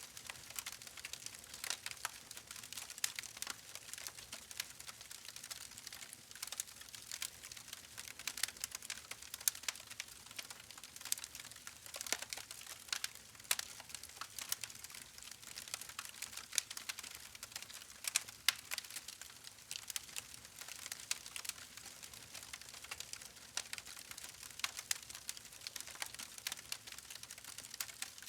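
Wood campfire crackling: a dense, irregular run of small sharp pops and snaps over a soft hiss, with a few louder pops now and then.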